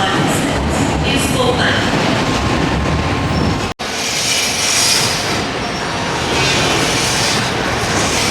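Docklands Light Railway train running on its track: a steady rumble and hiss of wheels and motors. The sound cuts out for an instant a little under four seconds in, then carries on with more high hiss.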